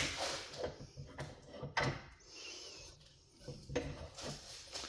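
Three sharp knocks, with scraping and rubbing between them and a brief high squeak in the middle.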